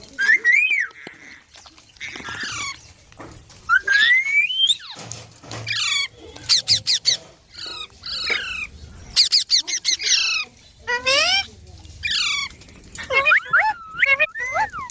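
Indian ringneck parakeets squawking and chattering: clusters of sharp, high chirps mixed with whistled calls that rise and waver in pitch.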